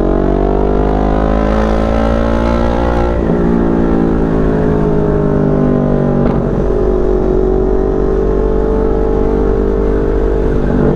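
CFMoto NK400 parallel-twin engine through an aftermarket SC-Project exhaust, accelerating. Its note climbs, drops with an upshift about three seconds in, then climbs more gradually and levels off.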